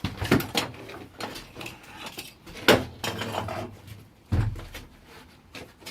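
Buckets of excavated rock and soil being hauled up and handled: a few sharp knocks and clunks, then a dull thump about four seconds in.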